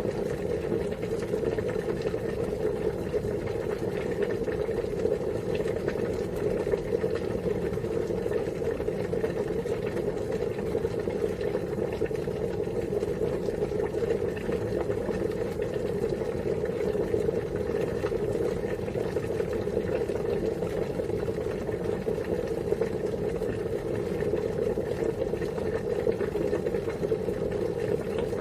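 Water at a steady rolling boil, a continuous bubbling rumble that holds even throughout.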